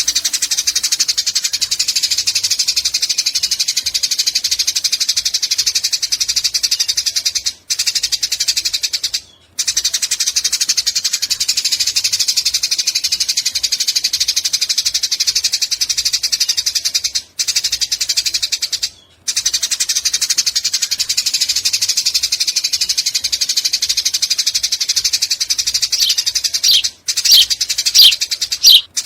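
Eurasian tree sparrow chattering in long, very rapid runs of high, evenly spaced notes (the long 'nyecret' call), pausing briefly a few times. Near the end it gives several separate sharp, falling chirps.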